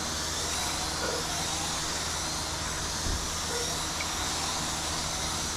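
1/18-scale electric RC race trucks running laps together: a steady hiss with faint high motor whines that rise and fall in pitch.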